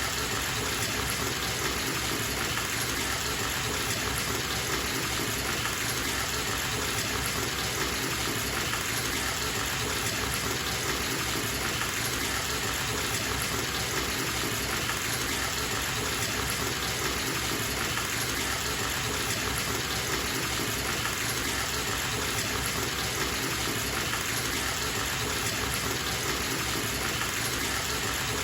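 Bathtub tap running, water gushing steadily into the tub as it fills.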